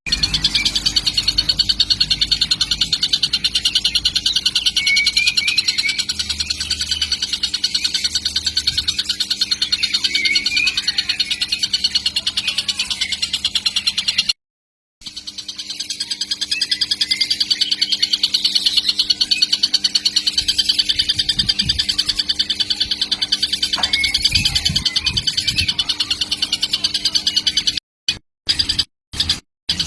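Young kingfisher (tengkek) chick calling in a fast, even, high-pitched rattle of notes without pause, breaking off briefly about halfway and stuttering in short bits near the end.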